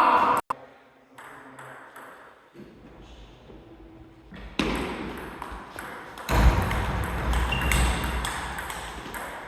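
Table tennis ball being struck back and forth in a rally, paddle and table hits over a noisy background that gets louder in the second half.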